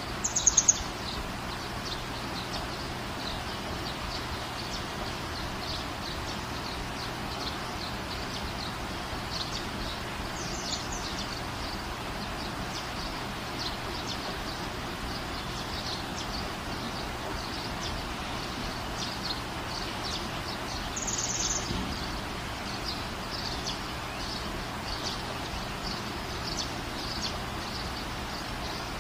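Birds chirping over a steady background hiss, with short high chirps scattered throughout and two louder ones right at the start and about twenty-one seconds in.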